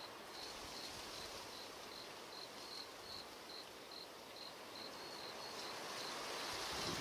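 A cricket chirping steadily at one high pitch, about two to three chirps a second, over a hiss of wind that grows louder near the end.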